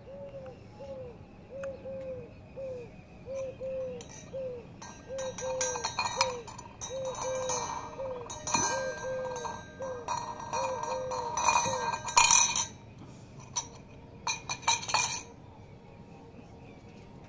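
A bird repeating one short, hollow, slightly falling note, about two a second, sometimes doubled. It stops about two-thirds of the way through. Over the middle of it come bursts of scuffling and clinking noise, loudest about three-quarters of the way in.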